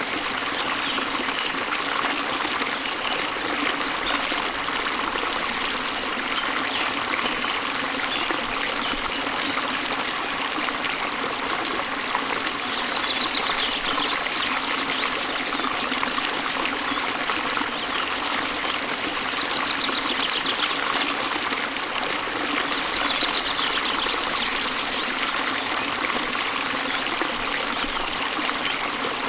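Waterfall water splashing and rushing steadily, an even, unchanging sound.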